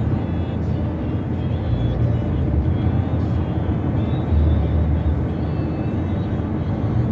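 Steady low road and engine noise of a car travelling at highway speed.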